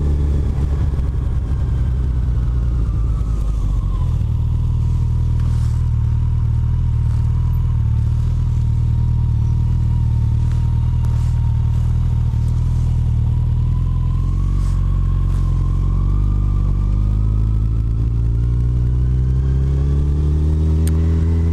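Yamaha FJR1300's inline-four engine running while riding. The engine note drops in the first few seconds as the bike slows, holds low and steady through the middle, then rises again near the end as it accelerates.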